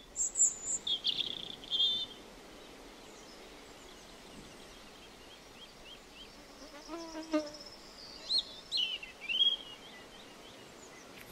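Birds chirping and calling in a forest over a faint steady hiss: quick high chirps in the first two seconds and again about eight to nine and a half seconds in, with a lower, rasping call around seven seconds in.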